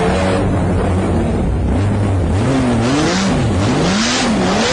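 Sports car engine revving, its pitch climbing and dropping several times in the second half over a steady lower engine note.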